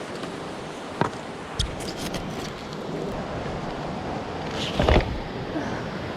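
Steady rush of a mountain stream swollen by rain, with a few short knocks and clatters, the loudest about five seconds in.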